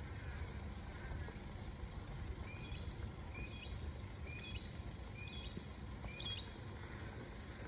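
A bird gives a short, rising call five times in a row, about once a second, over a low steady rumble.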